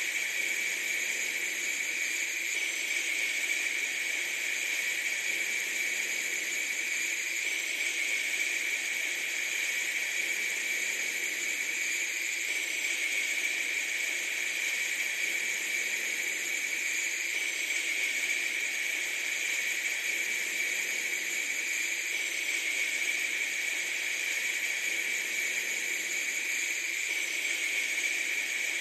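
Steady, unchanging hiss, even throughout, with a stronger high band and little low end.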